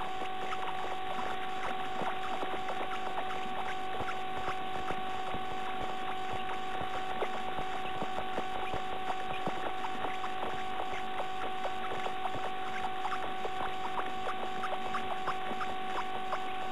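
Soft scratching and rustling as a nesting bird shifts and works in its moss-lined nest cup inside a nest box, many small irregular ticks, over a steady electronic whine.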